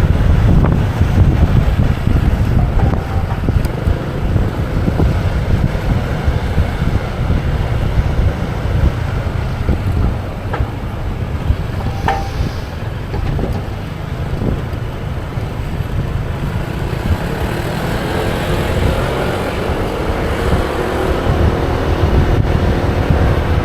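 Wind rumbling on the microphone and road noise while riding a motorbike, with a few brief clicks midway. An engine hum comes up in the last few seconds.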